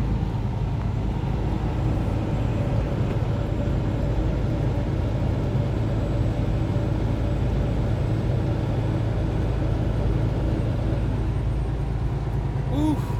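Semi-truck driving at highway speed, heard inside the cab: a steady low engine drone with road noise.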